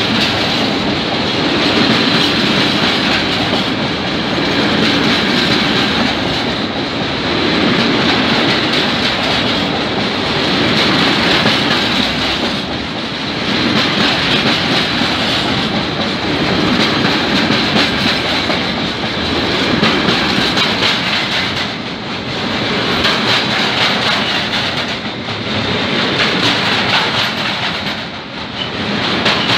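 Freight train of hopper wagons and sliding-wall covered wagons rolling past close by, a loud, steady rumble and rattle of wheels on rail that swells and eases off several times as the wagons go by.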